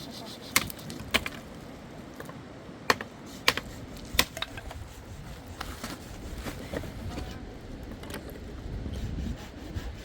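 A few sharp, irregular knocks or taps, about six in the first four and a half seconds, over a low rumble that grows stronger in the second half.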